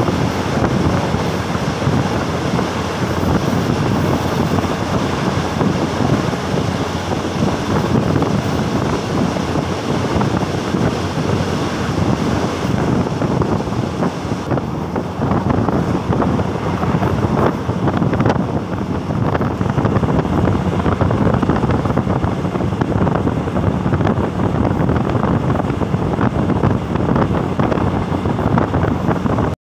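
Wind buffeting the microphone at the window of a moving passenger train, over the steady running noise of the carriage on the track. A freight train passes alongside at first, and the hiss eases a little about halfway through once it has gone by.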